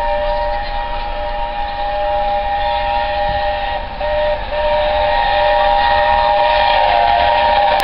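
The three-note chime whistle of the LNER A4 steam locomotive Union of South Africa, held as one long chord. About four seconds in it falters briefly, then it sounds louder to the end.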